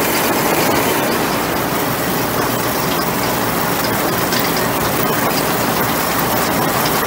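Steady engine noise, loud and even, with small rattling clicks throughout.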